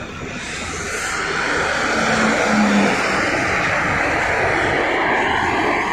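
Road traffic passing close by: a motor vehicle's engine and tyre noise. It swells over the first couple of seconds, then holds steady.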